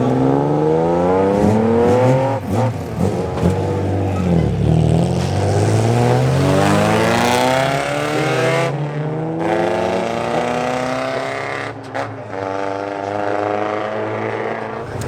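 Classic car engines revving, the pitch sweeping up and down again and again, with more than one engine heard at once.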